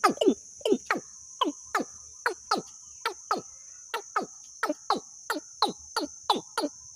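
A bird call repeated over and over, each note a short, quick downward sweep, about three a second, of the kind played to lure birds into a trap. A steady high insect-like buzz runs underneath.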